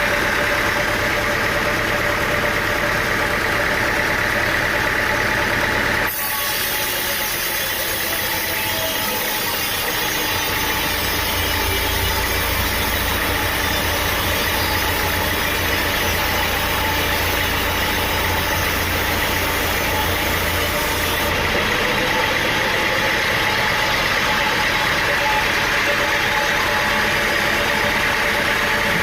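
Engine-driven sawmill machinery running steadily. The sound changes abruptly about six seconds in, and again about twenty-one seconds in, with a deep hum in between.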